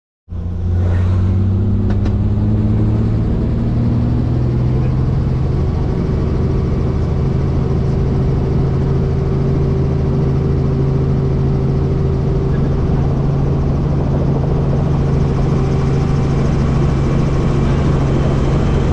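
Helicopter running with a steady low drone and hum. Its pitch rises slightly over the first few seconds, then holds.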